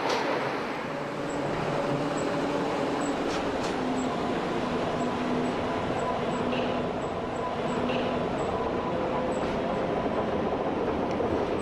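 Pilatus-Bahn cog railway railcar running: a steady rumble and hiss with a few faint steady hums.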